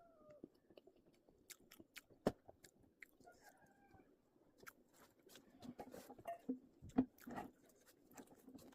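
A person chewing food close to the microphone: faint, irregular crunchy clicks and smacks, with a few soft mumbled sounds in the second half.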